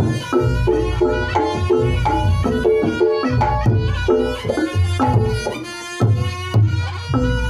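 Reog Ponorogo ensemble music (tabuhan reog): kendang hand-drumming drives the rhythm under repeated tuned gong strokes and a sustained, reedy melody line.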